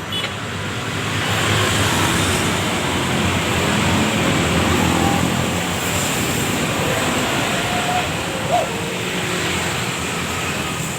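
Steady rush of motor-vehicle and road noise, like passing traffic, swelling about a second in, with one short knock past the eight-second mark.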